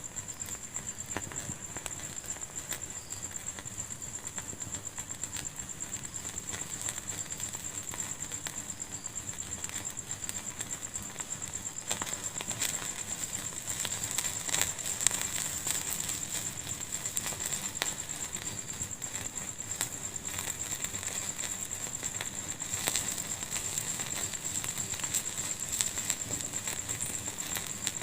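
Fire burning in a fireplace, crackling with frequent small snaps and pops, a few louder ones past the middle.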